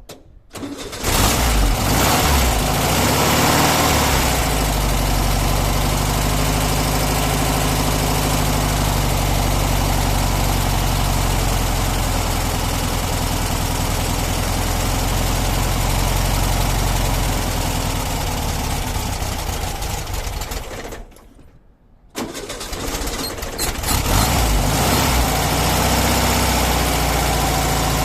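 Volkswagen T2 bus's air-cooled flat-four engine starting about a second in and running steadily, its first run after sitting through the winter. Near the end the sound fades and drops out for about a second, then the engine runs again.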